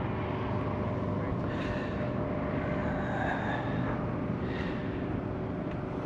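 Steady airfield background rumble with a faint constant hum, and faint distant voices.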